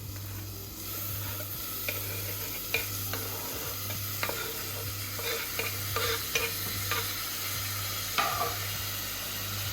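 Onion-tomato masala sizzling in hot oil in a pressure cooker, with a spoon stirring and scraping against the pot in short strokes.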